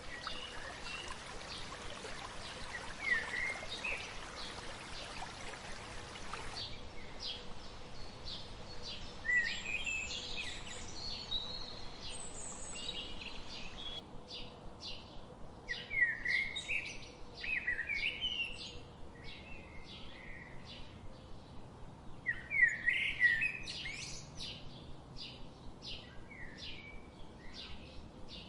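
Several birds chirping and singing in quick, overlapping calls and trills. A steady hiss runs under them at first and cuts off suddenly about six seconds in.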